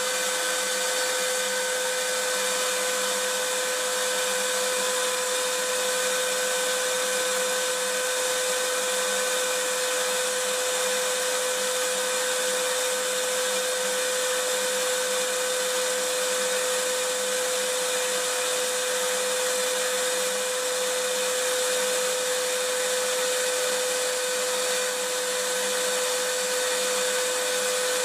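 Vacuum cleaner running steadily: a constant whooshing hiss with a steady motor whine, no change in pitch or level.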